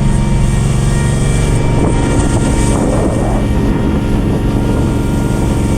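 A heavy engine running steadily at a constant pitch, with a rougher scraping texture over it for a second or so in the middle.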